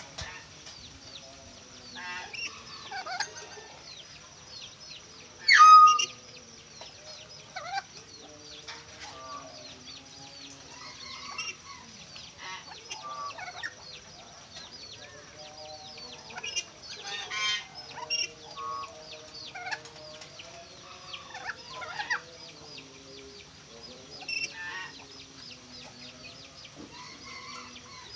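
Caged mynas and lories calling: a busy mix of short chirps, whistles and squawks, with one loud shriek about six seconds in.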